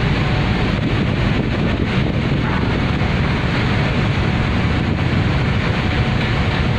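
Steady wind buffeting the microphone, a dense low rumble with no breaks.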